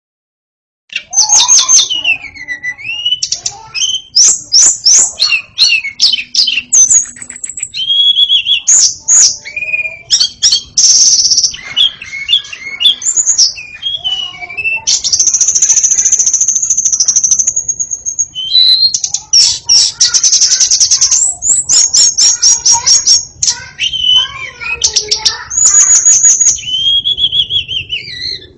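White-rumped shama (murai batu) singing loudly in a long, varied song. It starts about a second in with clear whistles sliding down in pitch, broken by rapid chattering trills, and holds one long high note in the middle.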